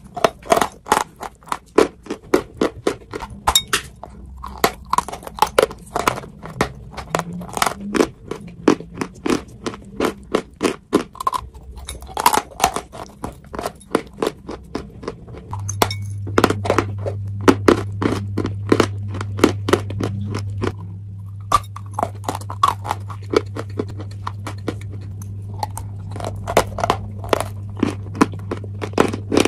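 Close-miked biting and chewing of a hard, brittle white chalky chunk: dense, sharp crunches, several a second, with short pauses between bites. A steady low hum comes in about halfway through.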